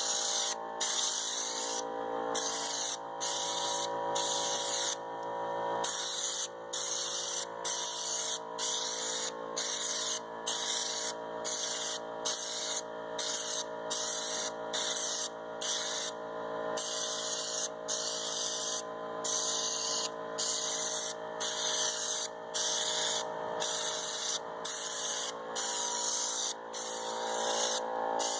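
Air-powered spray gun applying U-Pol Raptor bed liner: a loud hissing spray in short repeated bursts, cut off briefly about once or twice a second as the trigger is released and pulled again. A steady hum runs underneath.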